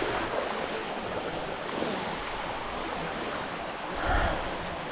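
Steady rush of water running down the sticky waterfall's cascade. A brief low bump about four seconds in.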